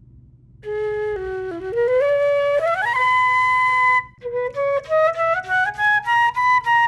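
Flute playing a short tune: a few notes sliding up into one long held note, then a quick run of short notes climbing in pitch.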